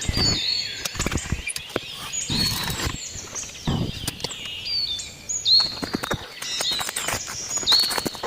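Birds chirping and calling with short whistled notes, some recurring at about the same pitch, over a scatter of sharp knocks and clicks and a few duller thuds from handwork.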